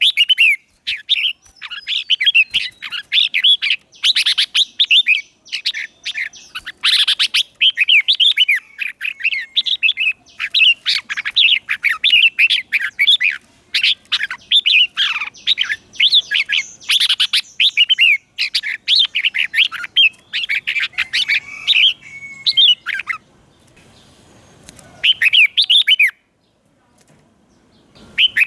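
Red-whiskered bulbul singing in quick, repeated warbling phrases, the song of a decoy bird calling in wild bulbuls. The song thins out near the end, stops for about two seconds, then starts again.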